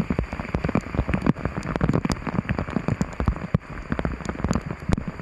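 Heavy rain, with dense, rapid drops hitting a hard surface close by as many separate sharp hits over a steady hiss.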